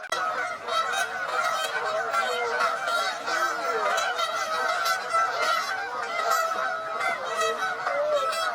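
A flock of Canada geese honking continuously, many calls overlapping at once.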